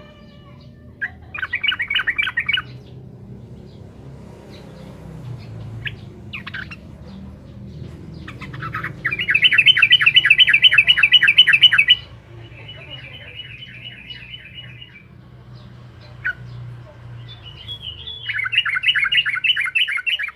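Yellow-vented bulbul (trucukan) singing in fast chattering runs of rapidly repeated notes. The longest and loudest run comes in the middle, followed by a softer one, and another begins near the end. Single chirps fall between the runs over a steady low hum.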